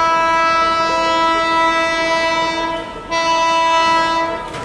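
Diesel locomotive horn sounding a long steady single-tone blast, breaking off briefly about three seconds in, then a second shorter blast that stops near the end.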